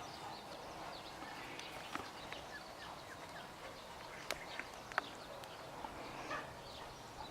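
Faint, scattered light clicks and taps over low background noise, with a few faint high chirps.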